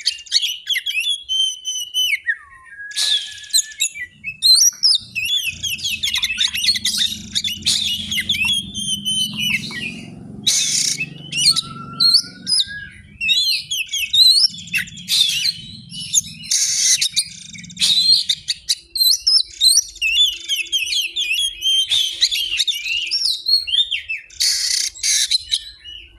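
Murai air (forktail) song recording: a fast, unbroken run of varied chirps, trills and sweeping whistles, mixed with harsh rasping notes. It is played as filler song to stir a kacer into singing.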